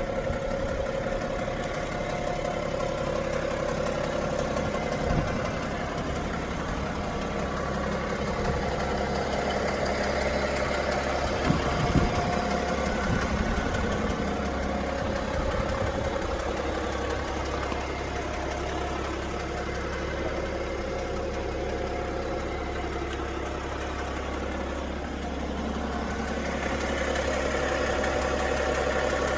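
BMW 530d's three-litre straight-six diesel engine idling steadily, with a knocking that the owner is unsure about. It gets louder over the last few seconds.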